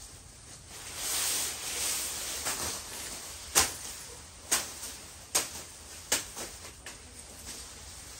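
A soft rustling, then four sharp knocks a little under a second apart, with a few fainter ticks between them.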